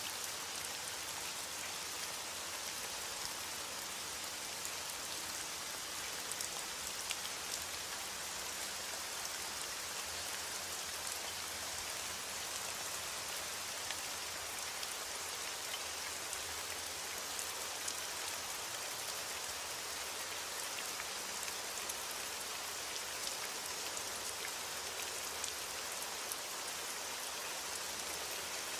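Heavy rain falling steadily on window glass: a dense, even hiss with scattered small sharp ticks.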